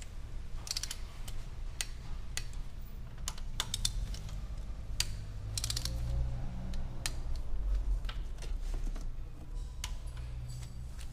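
Torque wrench ratcheting and clicking as cylinder head bolts are tightened to the first-stage torque. A string of sharp metallic clicks comes at irregular intervals, some in quick clusters, over a low background hum.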